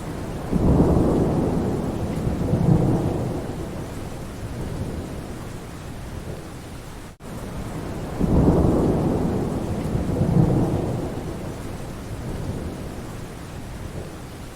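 Steady rain with rolling thunder: two long, deep rumbles, one starting just after the start and another about eight seconds in, each swelling twice before fading. A brief gap in the sound about seven seconds in.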